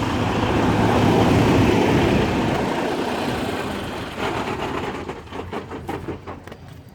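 Semi truck engine idling after the rig has stopped. The noise fades about four seconds in, leaving scattered light clicks and rattles.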